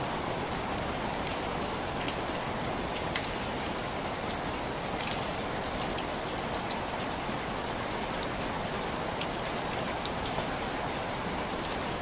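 Steady rain falling on window glass: an even hiss of rain with many scattered single drops tapping sharply against the pane.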